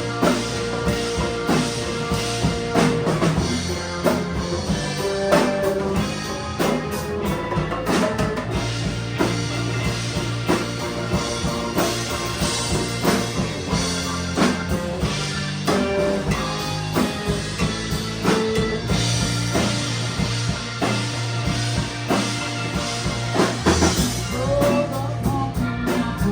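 A live rock band playing an instrumental passage: drum kit keeping a steady beat under electric bass and guitar, with no singing.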